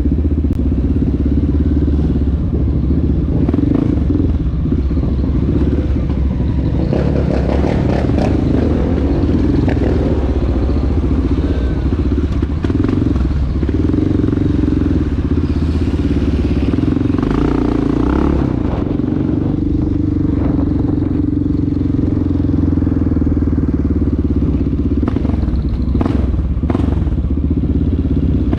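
Honda XR650L dirt bike's single-cylinder engine running steadily as the bike is ridden, its pitch shifting a little now and then, with some clatter over it.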